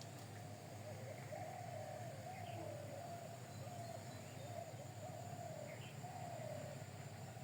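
Faint bird sounds: a couple of short chirps over a continuous wavering tone and a low steady hum.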